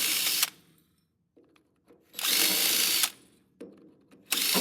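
Handheld power drill/driver run in three short bursts of about a second each, working loose the bolts of a truck door.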